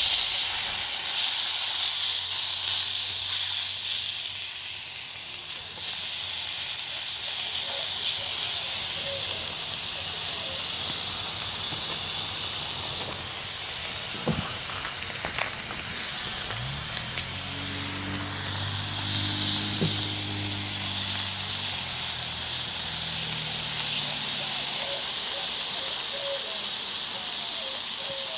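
Bacon strips sizzling on a hot grill beside frying hash browns, with a loud surge of sizzle right at the start as the bacon is laid down and another about six seconds in, then a steady sizzle. A low droning hum swells in for several seconds around the middle.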